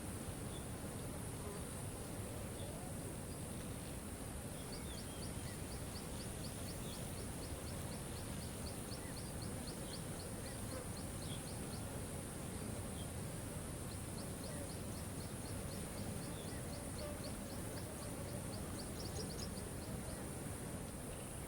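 Waterfall's steady rush of falling water under a high, even hiss. Twice over it comes a rapid high ticking trill of about five ticks a second, lasting several seconds each time, with a few faint chirps between.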